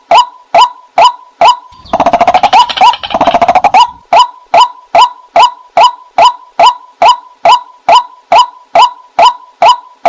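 White-breasted waterhen calls played as a decoy lure: a loud, evenly repeated short call note about twice a second. About two seconds in, it is broken for about two seconds by a rapid run of chattering notes.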